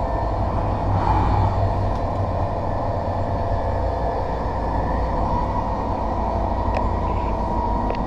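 Passenger train running along the track: a steady rumble of wheels and running gear on the rails, swelling briefly about a second in.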